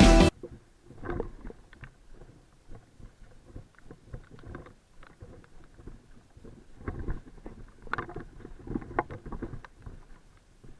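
Irregular splashes and knocks in water, uneven and fairly quiet, with a busier stretch of several sharper knocks toward the end. Background music cuts off right at the start.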